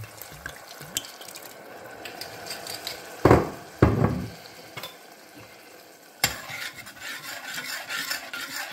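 Food sizzling in a hot frying pan as white wine is poured in, with two loud surges about three seconds in. About six seconds in a utensil knocks against the pan, and stirring follows, scraping steadily through the sizzle.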